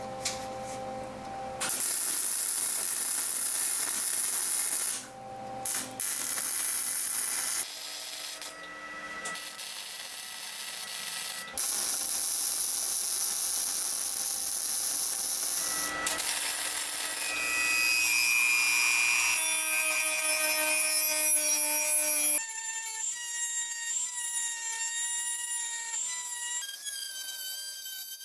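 Power tool working on metal in several short spliced clips: a loud, high-pitched hissing grind that cuts off and restarts several times. In the last third it gives way to a whining tone that wavers up and down in pitch.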